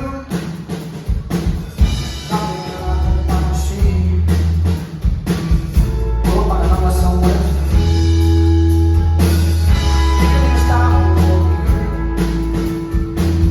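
Live rock band playing: drum kit, bass and guitar, with a strong low bass line and steady drum hits, in an instrumental passage with little or no vocal.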